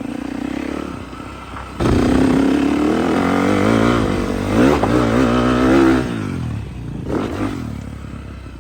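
Off-road vehicle engine revving hard on a run-up: it jumps to full throttle about two seconds in, its pitch wavering up and down with the throttle, then drops off after about six seconds and fades as the machine moves away.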